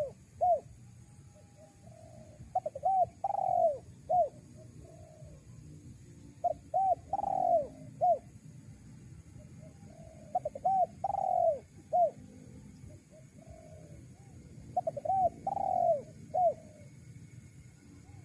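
Spotted dove cooing: phrases of a few short coos, one longer drawn-out coo and a final short coo, repeated about every four seconds, four times.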